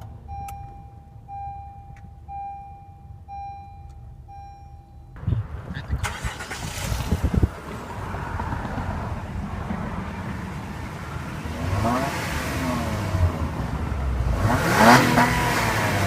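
A car's chime beeps about once a second, then the 2014 Honda Accord's V6 engine cranks and fires about five seconds in and runs, with two revs rising and falling near the end.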